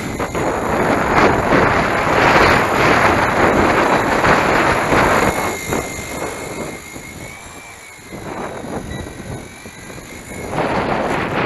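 Gusty wind buffeting the microphone, loudest in the first half, over the thin, wavering whine of a small electric RC helicopter's motors and rotor.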